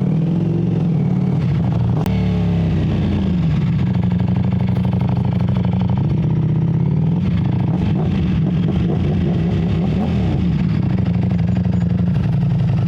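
Ducati Streetfighter V4S V4 engine running loud while riding, its pitch falling and rising several times as the throttle opens and closes.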